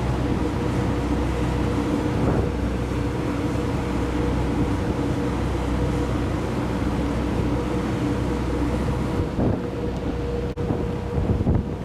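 Engines of the high-speed passenger ship Sun Liner 2 running underway: a steady drone with a constant hum over a noisy wash. Wind buffets the microphone in gusts near the end.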